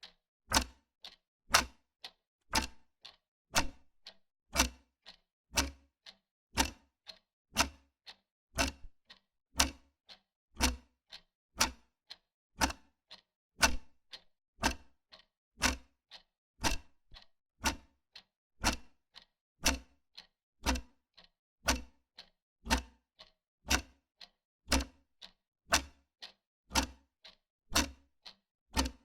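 Wall clock ticking steadily, about two ticks a second, alternating a stronger tick with a softer tock.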